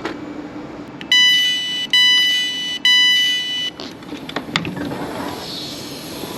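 Passenger train door warning: three long, loud electronic beeps in quick succession, sounding as the doors are released or about to close.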